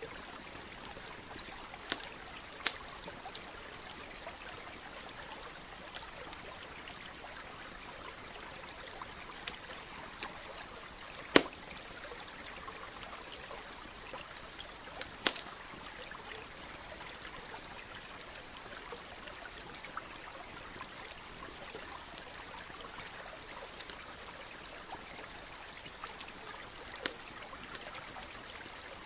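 Wood campfire crackling, with irregular sharp pops, two of them louder, about a third of the way in and about halfway, over the steady rush of a nearby stream.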